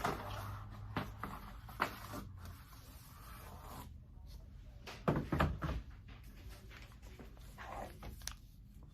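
Cardboard box being opened and a firework rocket pulled out by hand: scattered clicks and rustling of cardboard, with a louder run of knocks and scraping about five seconds in.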